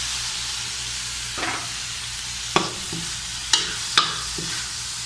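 Pre-fried chicken liver sizzling in hot oil with sautéed garlic and onions in a pan, a steady sizzle. Three sharp clicks from about halfway on as the pan is stirred.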